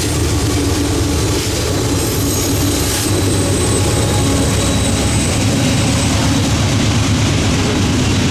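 Freight train passing close by: a loud, steady rumble of wheels on rail.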